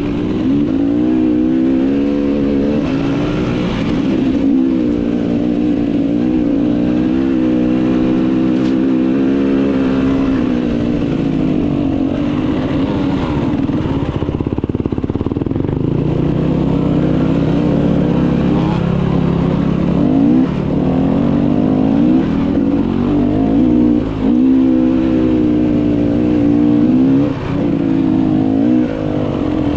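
Motocross bike engine running hard, its pitch rising and falling again and again as it revs up and drops back.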